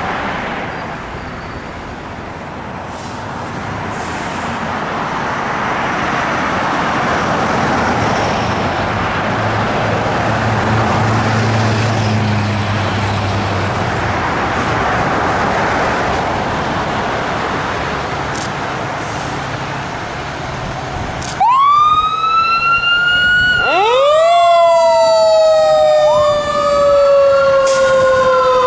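Steady rushing of traffic on wet roads, then about 21 seconds in a fire engine's sirens start suddenly: overlapping rising and falling wails, one of which winds up and then coasts slowly down in pitch, as a Federal Q2B mechanical siren does.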